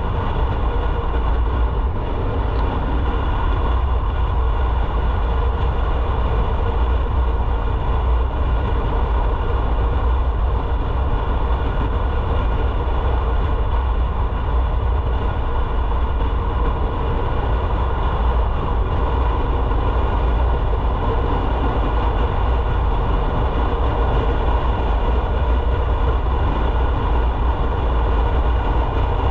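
Motorcycle riding at a steady speed: an even engine drone under a heavy low rumble of wind and road noise, with no change in pace.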